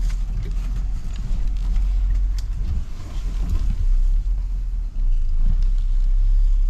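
Jeep Gladiator Rubicon running slowly along a rough, tight trail: a steady low engine and drivetrain rumble heard from inside the cab.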